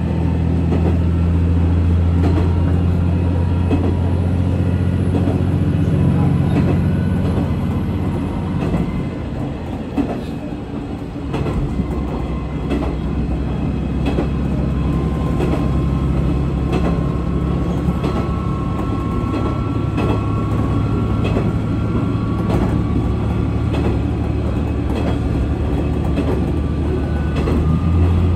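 Diesel railcar running on the line: a steady low engine drone that eases off briefly about ten seconds in and then picks up again. Alongside it are a faint, slowly rising whine and light regular clacks of the wheels over rail joints.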